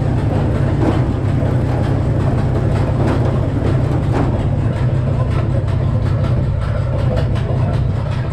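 Frick sawmill running steadily with its engine drone, with a fine rattling clatter over it that grows busier in the second half.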